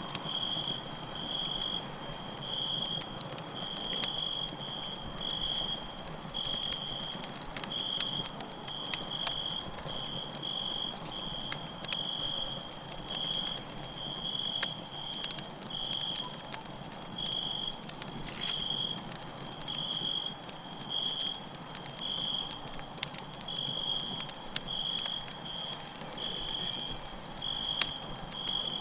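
Campfire crackling, with scattered sharp pops over a steady hiss of burning wood, under crickets chirping in a continuous run of short, high chirps.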